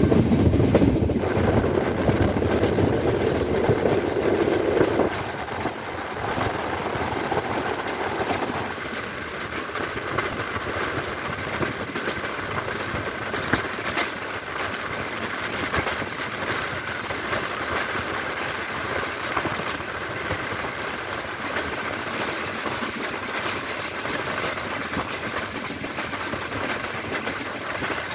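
Train running along the track, heard from on board: a steady rumble and rattle with wheels clicking over rail joints. Louder and heavier for the first five seconds, then settles to an even running noise.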